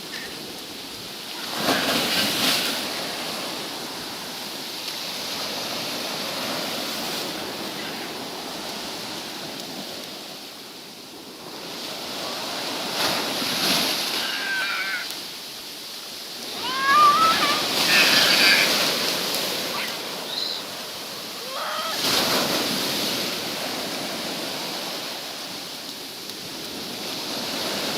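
Sea waves breaking on a beach, the surf swelling and washing in every few seconds.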